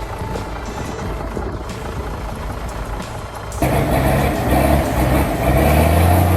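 A truck engine cuts in suddenly about three and a half seconds in and runs loud with a steady low drone, over a quieter bed of music and outdoor noise.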